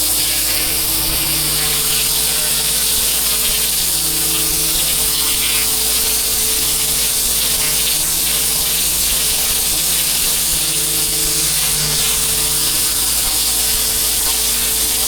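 Pressure washer running with its water jet spraying: a steady, loud hiss over a constant drone from the machine.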